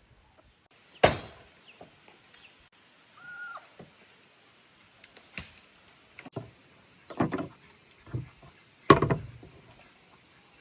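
A series of about six irregular knocks and thuds, the loudest about a second in and near the end, with a short chirp-like call a third of the way through.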